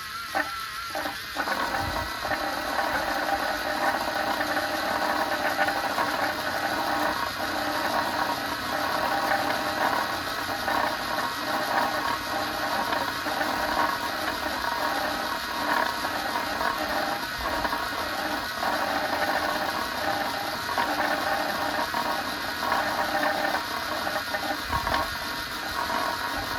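Small electric gear motors of DIY remote-control toy tractors whirring and grinding steadily, the pitch wavering as they pull against each other in a tug-of-war; the sound grows louder about a second in.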